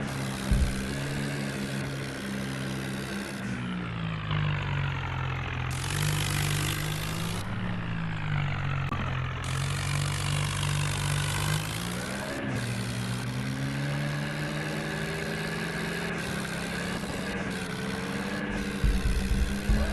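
John Deere tractor's diesel engine running steadily, its pitch sagging and picking back up several times as the engine speed changes. A few low thumps come near the end.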